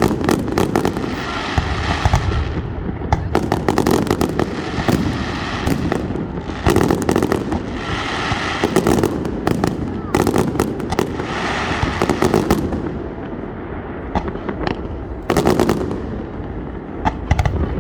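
Fireworks going off over and over, in clusters of rapid crackling pops every second or two.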